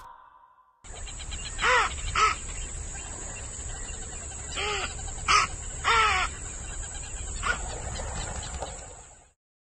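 An animal, most likely a bird, giving about six short calls that rise and fall in pitch, several of them in quick pairs, over a steady high-pitched hiss.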